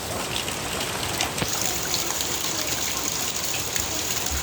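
Heavy rain pouring down, a steady hiss dense with the patter of drops, with water gushing and trickling as it overflows from filled containers and buckets.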